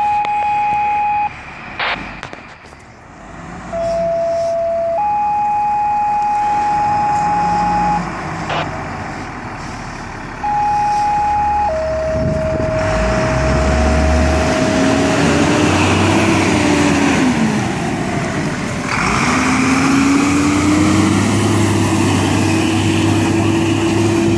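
Fire radio dispatch tones: a series of steady beeps at a few different pitches, a short tone followed by a longer one, repeated. About halfway through, a fire engine's siren winds slowly up and down twice over the rumble of the truck's engine.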